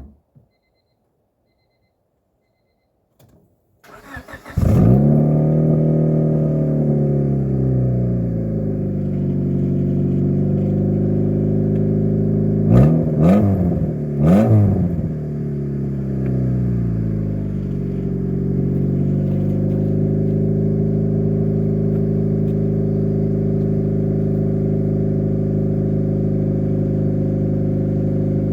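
1998 Honda Civic's four-cylinder engine, breathing through a new aftermarket axle-back muffler, starting about four seconds in and settling from a high idle to a steady one. It is revved twice, quickly, around the middle, then idles steadily.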